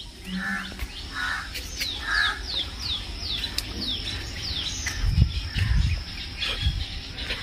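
Birds calling: a run of quick, high, falling chirps about three a second over a steady thin high insect drone, with a few lower, harsher calls in the first two seconds. A low rumble comes in about five seconds in.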